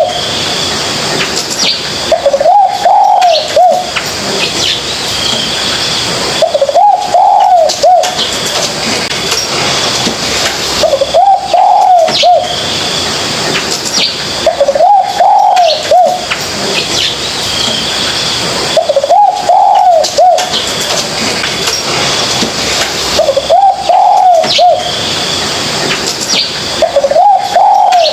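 Spotted dove cooing, its phrase repeated about every four seconds, with faint high chirps from other birds between the coos.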